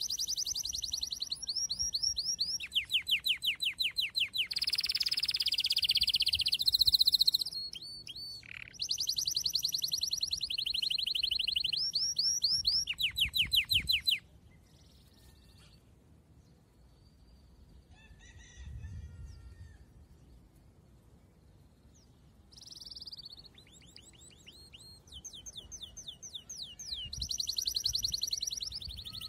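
A songbird singing in long, fast trills of repeated high chirps, about a dozen a second. Partway through it falls quiet for several seconds, then the trills start again.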